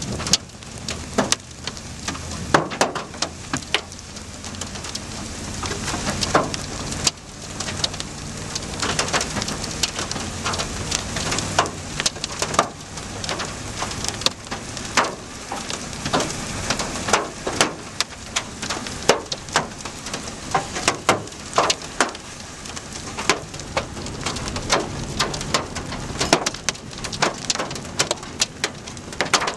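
Heavy rain pelting down, with frequent sharp, irregular hits over a steady hiss, and a low rumble that fades after the first several seconds.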